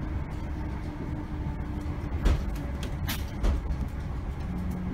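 Interior of a Class 321 electric multiple unit on the move: a steady low rumble of the running train, with a couple of knocks about two and three and a half seconds in.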